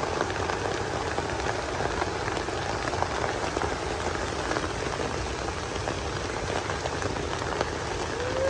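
Steady rain falling: an even hiss of rain with many small drops ticking through it.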